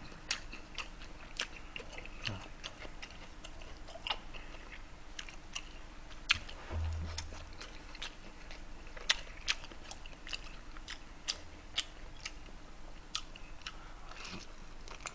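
Close-miked chewing of seaweed-wrapped gimbap: irregular wet mouth clicks and smacks throughout, with a short low thump about seven seconds in.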